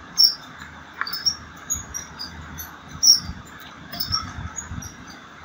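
High, short chirps of small birds, coming roughly once a second, with faint low knocks underneath.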